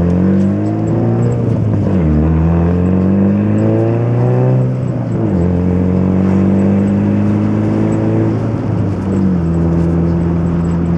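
Turbocharged Honda B18C four-cylinder in a Civic hatchback with a straight-through exhaust and no muffler, heard from inside the car. The revs climb, drop at a gear change about two seconds in, climb again, and drop at another shift about five seconds in. It then holds a steady cruise, easing down a little near the end.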